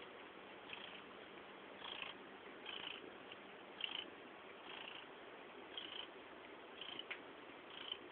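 Abyssinian cat purring loudly, each breath cycle swelling about once a second in an even rhythm.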